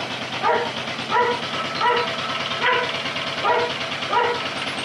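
A dog barking six times at an even pace, about one bark every 0.7 seconds, over the steady running of a vintage Lister petrol stationary engine.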